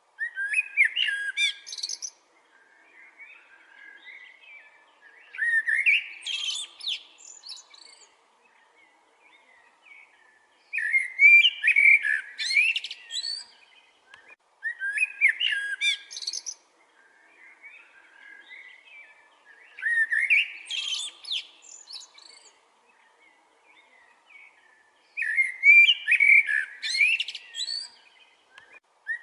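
Songbird singing: loud warbling phrases about two seconds long, repeated roughly every five seconds, with quieter twittering between them.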